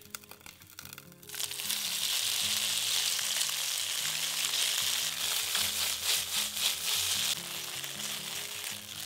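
Shredded smoked tofu and ginger strips sizzling in hot oil in a wok. The sizzle starts loud about a second in, as the food goes into the oil, and eases somewhat near the end.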